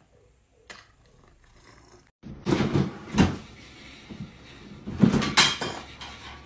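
A quiet start with a single click, then, from about two seconds in, several loud knocks and clatters of hard objects, like a cupboard door or things being knocked about.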